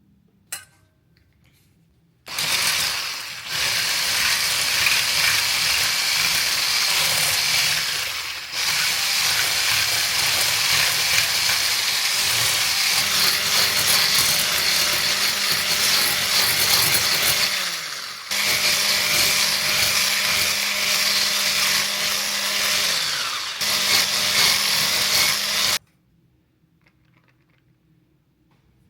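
Electric kitchen mixer running at speed. It starts about two seconds in, dips briefly three or four times, and cuts off suddenly near the end. A short click comes just before it.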